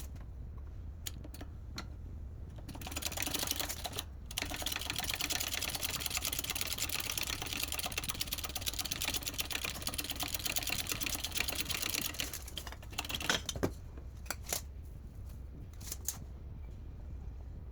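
A power tool running with a rapid mechanical clatter for about ten seconds, stopping briefly about four seconds in, with scattered clicks before and after.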